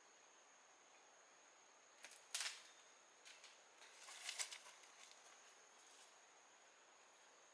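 Faint, steady, high-pitched insect trill, with two short clusters of sharp clicks and cracks about two and four seconds in.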